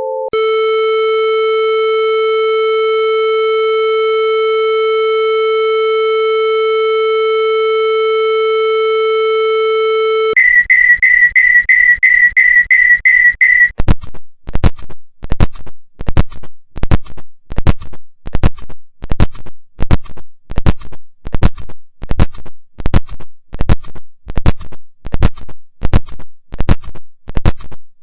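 A steady, harsh electronic buzzer tone held for about ten seconds, then a few seconds of fast high-pitched beeping, then a long run of sharp scratchy strokes repeating about one and a half times a second.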